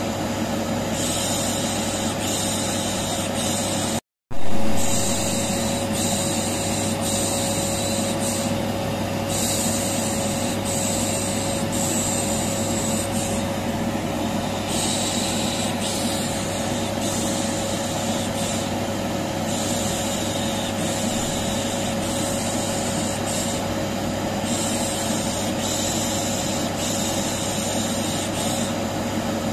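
Vacuum cleaner running steadily, with a hum and a hissing 'shh shh' shushing that comes and goes over it, looped as white noise to soothe a colicky baby. The sound cuts out for a moment about four seconds in and returns with a short loud surge.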